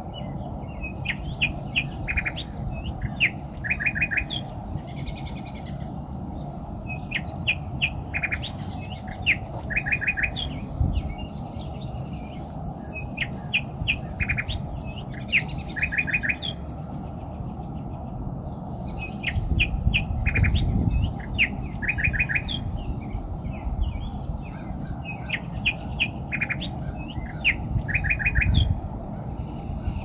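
Small birds chirping and twittering, many short sharp notes with repeated quick runs of four or five notes, over a steady low rumble that swells up a few times.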